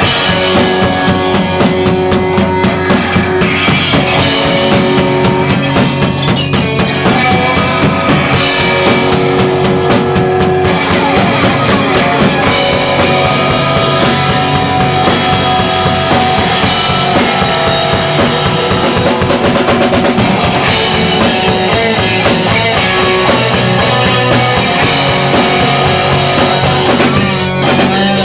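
Rock band playing live, recorded on a camcorder microphone: a steady drum kit beat with kick and snare under guitars and bass, continuous and loud.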